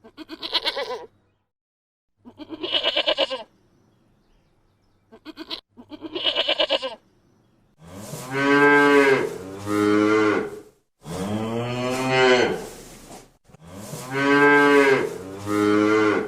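Four short, quavering bleats, then from about eight seconds in a cow mooing in a run of long, loud, low calls that fall in pitch.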